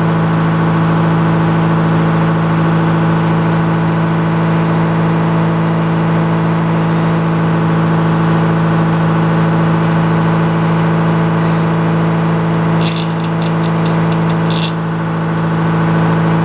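Sawmill's gasoline engine idling steadily with the throttle still at low RPM. A short run of quick, evenly spaced clicks comes near the end.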